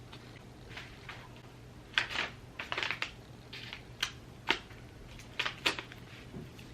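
Sheets of paper being handled and crinkled: about a dozen short, irregular rustles and taps.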